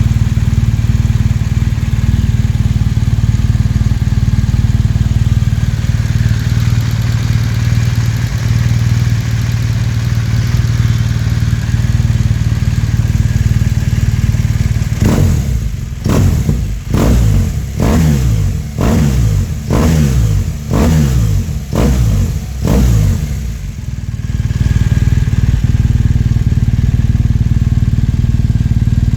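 BMW R1200RS boxer-twin engine breathing through a REVOC Tri Oval slip-on exhaust. It idles steadily, then about halfway through gets about eight quick throttle blips roughly a second apart, each rev rising and dropping back, before settling back to idle.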